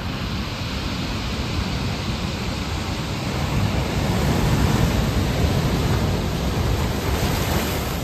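Rough sea in a windstorm: a steady rush of breaking surf that swells to its loudest about halfway through, then eases a little.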